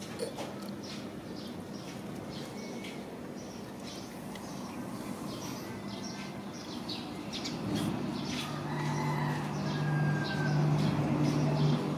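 Small birds chirping repeatedly in short, high calls. About seven or eight seconds in, a low steady hum comes in and grows louder.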